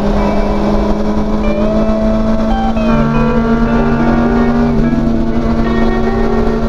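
Honda CB400SF inline-four engine through a WR'S slip-on muffler, cruising at a steady speed with an even, unchanging drone. Music with held notes plays over it.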